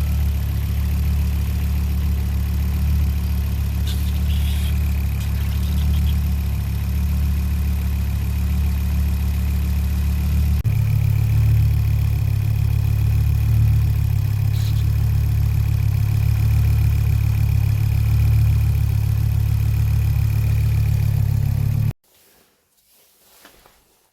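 Volvo 850R's turbocharged five-cylinder engine running steadily at idle, on an engine with a blown head gasket. The engine note shifts at a cut about ten seconds in, and the sound stops abruptly near the end.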